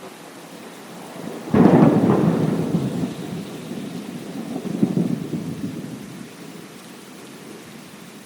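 Thunder over steady rain: a sudden loud clap about a second and a half in, then rolling rumble that swells again around five seconds before dying away under the rain.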